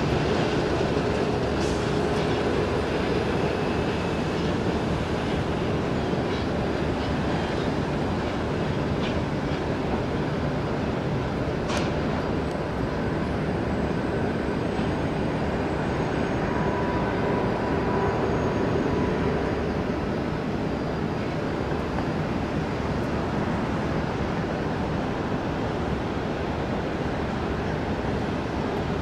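Steady roar of jet aircraft engines, even in level throughout, with a faint steady whine underneath.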